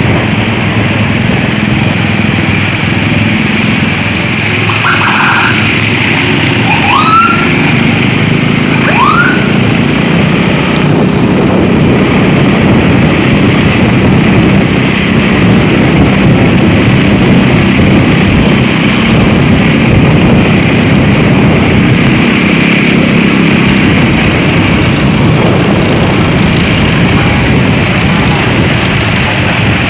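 Emergency escort vehicles on the move through traffic: loud steady road and engine noise with a siren sounding. Two short rising chirps come about a quarter and a third of the way in.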